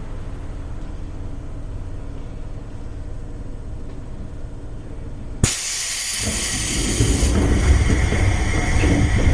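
Seibu 101 series electric train car standing with a steady low hum. About halfway through, a sharp click and a sudden loud air hiss as the brakes release, then a low rumble that grows as the car starts to pull away.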